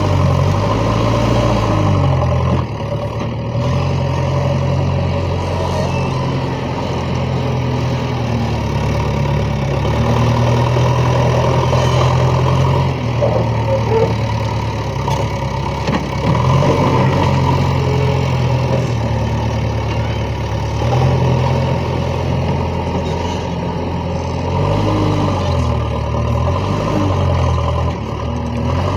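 Diesel engine of a JCB 3DX backhoe loader running under load, its speed stepping up and down over and over as the machine works.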